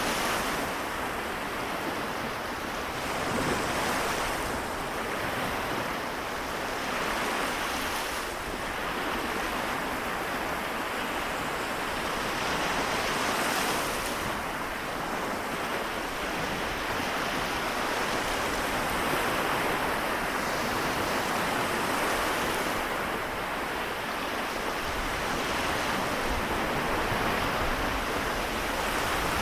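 Small waves on the Seto Inland Sea washing onto the shore in a steady hiss, swelling and easing every few seconds, with a little wind.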